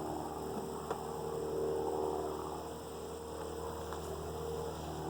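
Steady hum of a honeybee colony buzzing over an open hive, with one light click about a second in.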